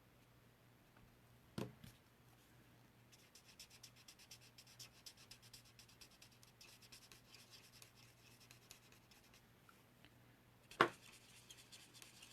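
Faint scratching of a marker tip rubbed quickly over cardstock, colouring in with small circular strokes. A sharp click sounds about a second and a half in and another near the end.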